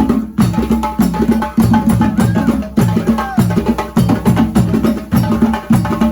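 Drums playing a fast, steady rhythm of sharp strikes.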